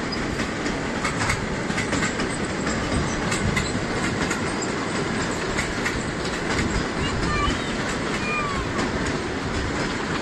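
Train rolling past close by: a steady rumble of wheels on rails, with the clickety-clack of the wheels striking rail joints.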